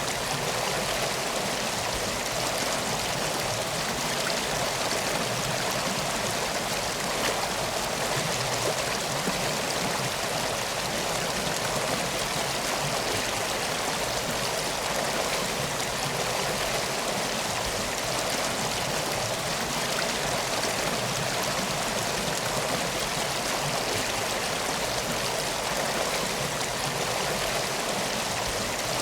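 A river flowing steadily: an unbroken rush of water with no change in level.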